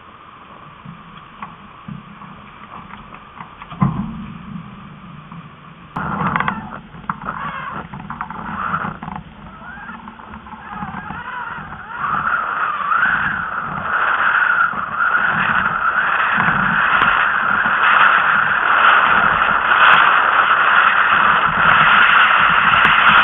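Rushing noise of wind and water aboard a Tornado catamaran under sail, uneven at first with a knock about four seconds in, then growing louder and steadier about halfway through.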